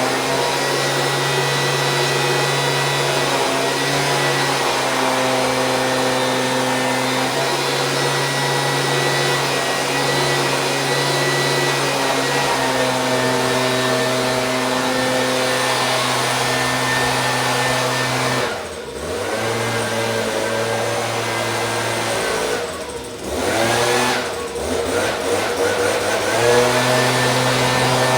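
Stihl BG 86 handheld leaf blower's two-stroke engine running steadily at high speed. About two-thirds of the way in, the throttle is eased off twice, so the pitch drops briefly, then it revs back up to full speed near the end.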